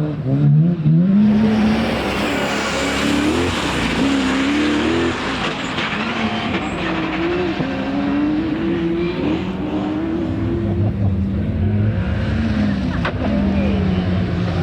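Rally car engine revving hard, its pitch climbing and dropping again and again through gear changes and lifts. A rush of tyre and road noise rises over it for the first several seconds.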